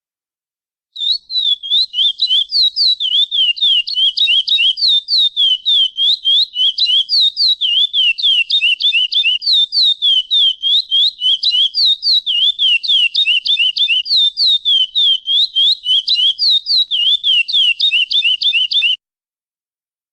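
Curió (lesser seed-finch) singing the 'praia clássico' song: a long, fast run of clear whistled notes, each sweeping down or up in pitch, about four to five a second. It starts about a second in and stops abruptly near the end.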